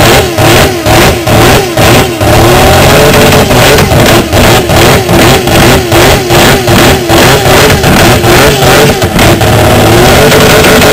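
Mazda MCS racing car's rotary engine (1985 Fuji GC spec), very loud, revved with quick throttle blips about two or three a second. It is held at steady revs for a moment about two seconds in and again near the end.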